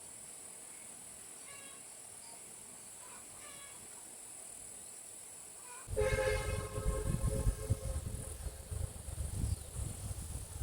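Insects trill steadily with a few faint chirps. About six seconds in, a much louder stretch starts abruptly with a long pitched call or horn-like note lasting over a second, followed by uneven low rumbling noise.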